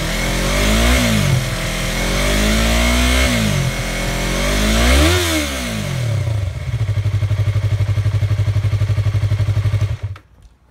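A 2015 Yamaha YZF-R3's parallel-twin engine through its stock exhaust, revved three times with the pitch rising and falling each time, then settling into a steady, pulsing idle. The engine sound stops abruptly near the end.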